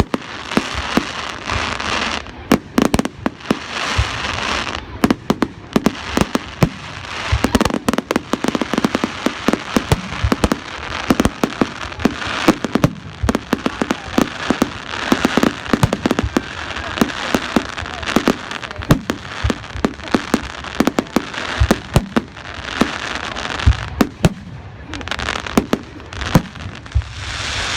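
Fireworks display: a dense, continuous run of sharp bangs and crackles, many going off in quick succession.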